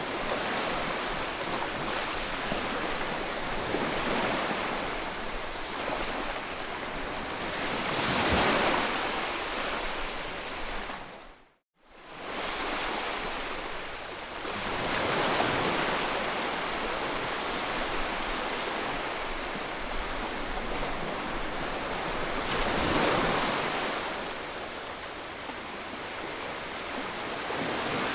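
Sea waves washing in, a steady wash that swells louder twice. The sound cuts out for a moment a little before halfway through.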